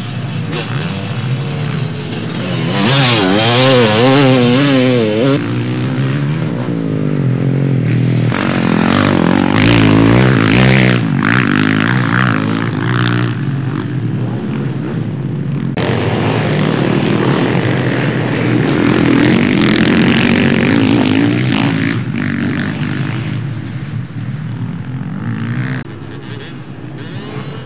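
Motocross bikes racing past on a dirt track, their engines revving up and down rapidly as the throttle is worked, with several bikes overlapping. The sound eases off a little near the end.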